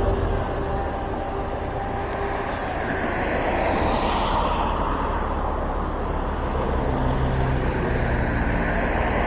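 Cross traffic passing on a wet road: tyres hissing on rain-soaked pavement over a low engine rumble, with a car swelling past about four seconds in and another near the end.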